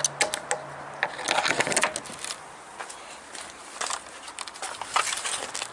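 Irregular crunching and scuffing footsteps with rustling, a quick run of short clicks that comes in clusters.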